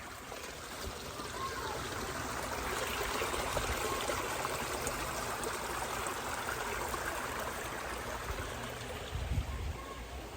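A stream running: a steady rush of water that builds up a second or two in and eases off near the end.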